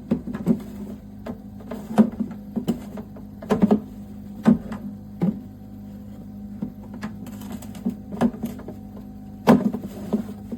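Steady low hum of a BougeRV portable compressor fridge running, with a dozen or so irregular sharp knocks and clacks as the fridge's lid and parts are handled.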